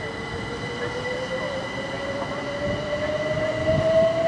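A train running on the line, with a whine that rises steadily in pitch as it picks up speed, growing louder toward the end.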